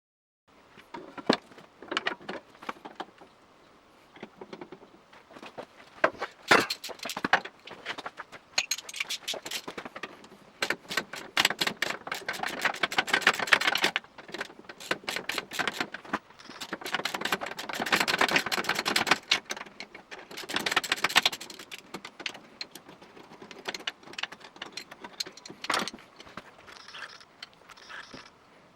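Metal hand tools and brake pedal parts on a Lexmoto ZSX-R motorcycle clinking and knocking during removal of the brake pedal. There are runs of rapid clicking in the middle and again later on.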